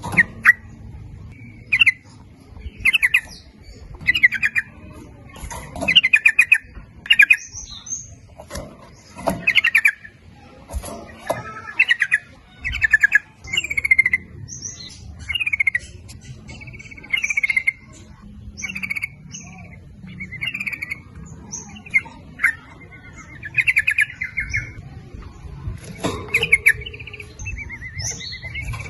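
Sooty-headed bulbul (trucuk) singing: short bubbly, chattering phrases repeated about once every second or so, with fainter higher notes in between.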